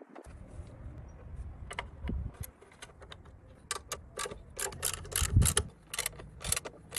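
Metal parts and hand tools clicking and clinking in an irregular series, with a dull low thump about five and a half seconds in.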